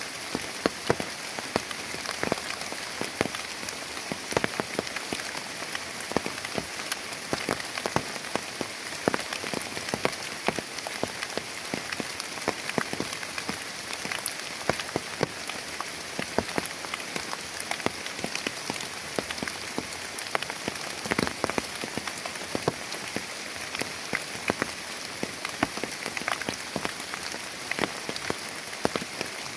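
Heavy rain falling steadily, with many loud individual drops striking a surface close by as sharp, irregular taps over the hiss.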